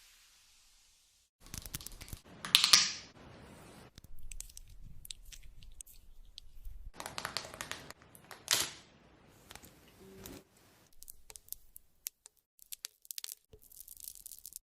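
Makeup products and their packaging being handled for ASMR: crinkling, scratching and clicking, with two louder rasping bursts about six seconds apart.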